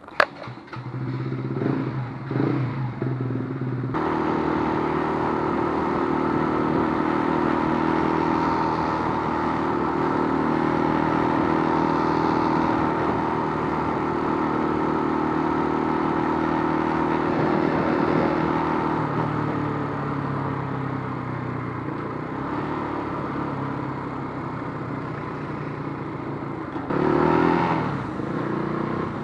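Keeway RKF125 motorcycle's single-cylinder 125 cc engine starting within the first second, then running with a few short throttle blips before settling into a steady run. A louder surge of revs comes near the end.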